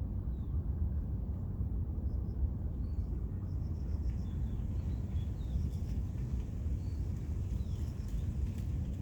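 Outdoor ambience: a steady low rumble with small birds chirping faintly over it, in quick runs of short high repeated notes and a few falling calls.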